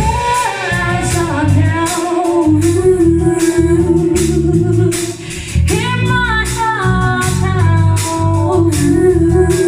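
Live band music with a woman singing lead: held, bending sung notes over a steady drum beat and bass, with a brief break about five seconds in before the next sung phrase.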